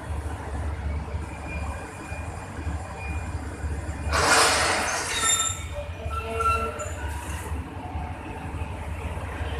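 Empty passenger train reversing slowly through the station, with a steady low rumble. About four seconds in, a loud hiss lasts about a second and a half, followed by a few short high-pitched wheel squeals.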